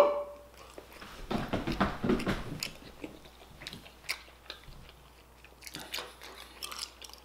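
Close-miked chewing of crispy fried chicken: crunching and mouth clicks, busiest in the first couple of seconds and then sparser.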